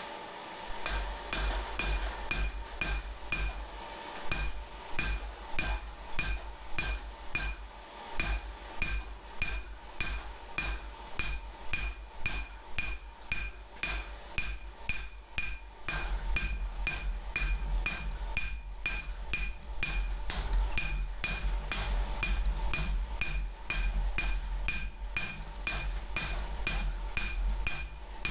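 Hand hammer forging steel on an anvil: a steady run of blows, about two to three a second, each with a bright ring from the anvil. There are brief pauses between runs of blows.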